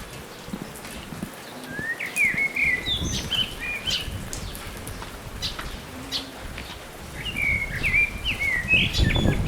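A songbird singing two short phrases of quick, varied whistled notes, one about two seconds in and another near the end, over a low rumble.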